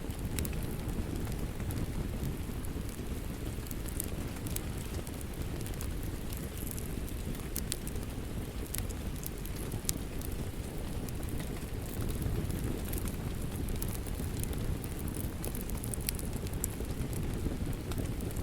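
Steady rain mixed with a crackling wood fire: a constant low rush of rain, with sharp pops and crackles scattered irregularly over it.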